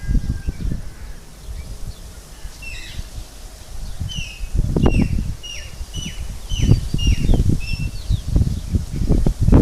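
A bird calling a string of short, high chirps that fall in pitch, about two a second, over loud, irregular low rustling and buffeting.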